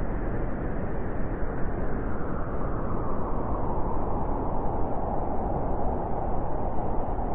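Winter wind blowing steadily: a low, rushing rumble with no distinct events.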